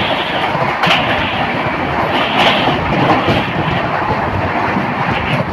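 Train running: a loud, steady rushing rumble with no voices.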